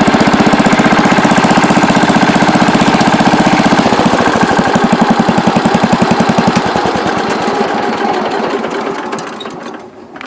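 Allis-Chalmers Big Ten garden tractor engine running with an even, quick firing beat. About four seconds in it drops to a slower beat, then dies away over the last few seconds. It runs smoothly after a carburettor clean, new fuel line and governor adjustment.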